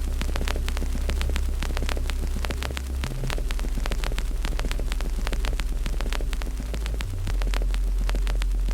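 Wood fire crackling with many small pops and snaps, over a steady low rumble.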